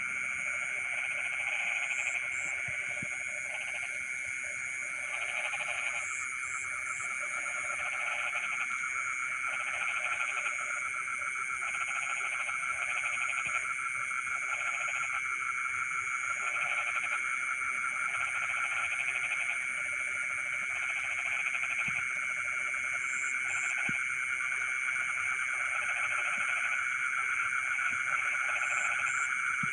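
A chorus of frogs from a rice field: a dense, continuous trilling, with lower croaking pulses coming in short groups about once a second. Over it runs a steady high-pitched buzz of insects.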